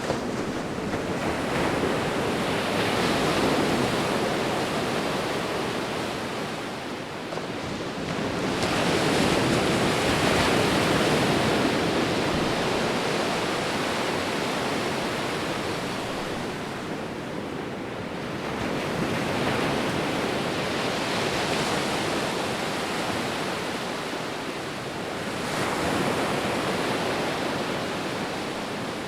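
Sea waves rolling onto a shore in repeated surges: the wash swells, holds for several seconds and ebbs before the next wave, about four waves in all.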